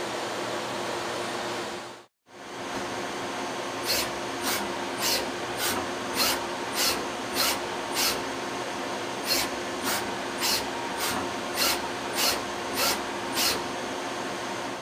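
Citizen M32VIII Swiss-type CNC lathe running, with a steady mechanical hum. The sound cuts out briefly about two seconds in. From about four seconds a regular series of short, sharp hisses repeats roughly every half second or so as the machine works.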